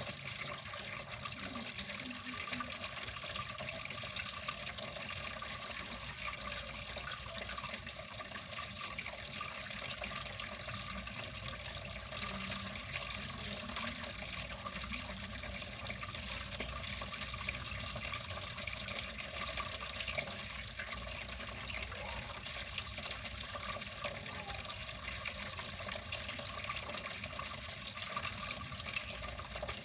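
Water flowing steadily, a continuous even splashing rush with no pauses.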